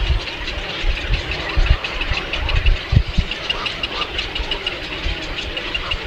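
Small birds peeping in a rapid series of short high chirps, several a second, over irregular low rumbling thumps.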